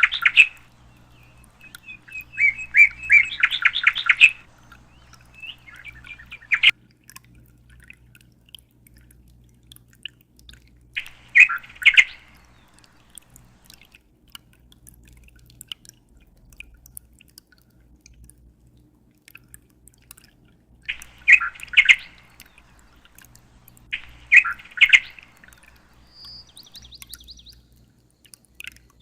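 A small bird chirping in short bouts of rapid, repeated chirps, about half a dozen bouts with pauses of several seconds between them. A low steady hum runs underneath.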